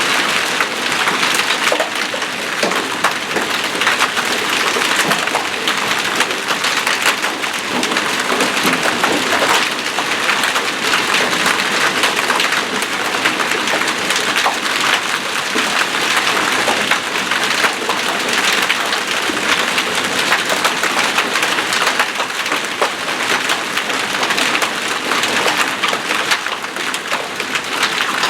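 Hailstorm downpour: a dense, steady clatter of hail and rain striking surfaces, made of countless small sharp hits.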